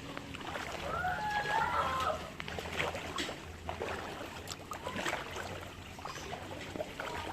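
Scattered splashing and sloshing of floodwater, with a short warbling call, like a bird's or chicken's, about a second in.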